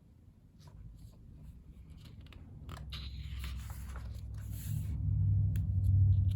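Pages of a photobook being handled and turned: soft paper rustles and small clicks, busiest in the middle. Under them a low hum grows steadily louder and becomes the loudest sound near the end.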